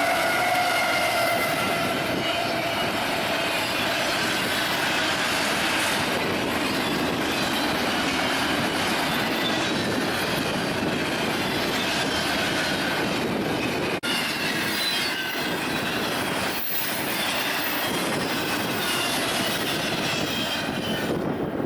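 Train cars rolling past, wheels squealing on the rail: several high, wavering screech tones over a steady rumble.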